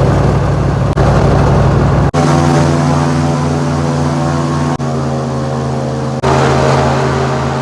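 Airboat's engine and propeller running loud and steady, in several short stretches that cut off abruptly, the engine note changing pitch at each cut.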